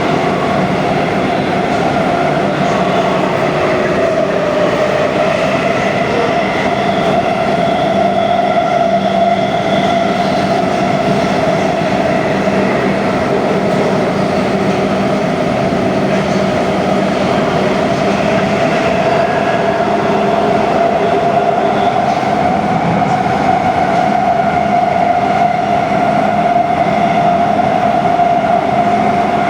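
Siemens Inspiro metro train running at speed, heard from inside the car: a steady rumble of wheels on rail with a steady whine over it.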